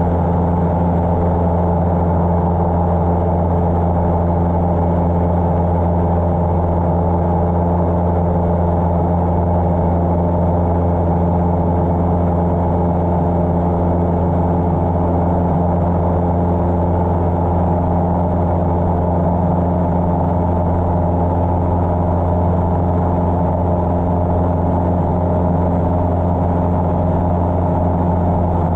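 Cessna 150's four-cylinder Continental O-200 engine and propeller droning steadily in flight, heard inside the cabin.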